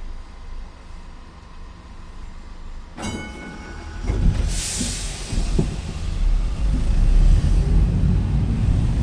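Bendigo heritage tram on the move: a quiet rumble, then a sudden metallic ring about three seconds in. A burst of hiss follows, and the rumble of the tram's running gear grows steadily louder.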